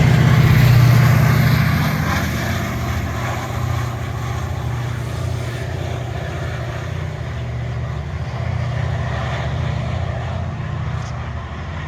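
Diesel engine of an MPI MP36PH-3S locomotive running under power as a commuter train moves off; the low engine note is loud for the first two seconds, then eases to a steady rumble.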